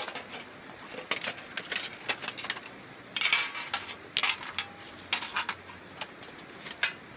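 Metal camp cooking gear clinking and knocking as it is handled: a string of sharp clinks, with a short scraping rustle about three seconds in.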